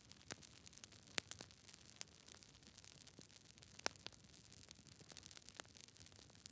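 Wood fire crackling: scattered sharp pops and snaps over a faint soft hiss, the loudest pops about a second in and near four seconds in.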